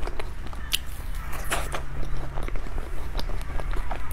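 A person chewing a soft matcha cream pastry close to a clip-on microphone: scattered wet mouth clicks and smacks over a low steady hum.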